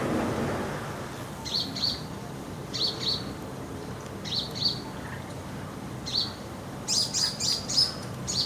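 House sparrow chirping: short, repeated chirps in small clusters every second or so, with a quicker run of chirps near the end. A low rumble fades out in the first second.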